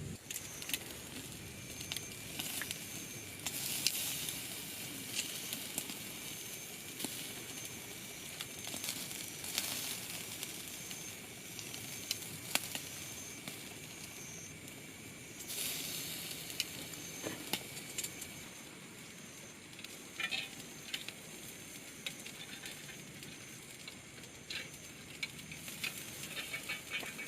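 Campfire burning with a steady hiss and scattered sharp crackles and pops.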